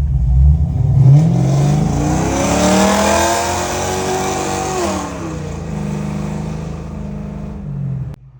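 2023 Subaru WRX's FA24 turbocharged flat-four breathing through an aftermarket exhaust, revved up from about a second in, held high, then dropping back to a steady idle near the middle. The sound cuts off just before the end.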